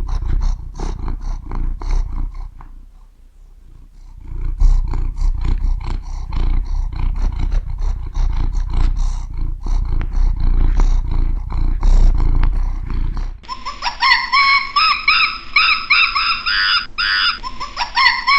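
A large animal roaring and growling in deep, rough pulses, fading briefly a few seconds in. About 13 seconds in it changes to a different, higher call repeated over and over with a bending pitch.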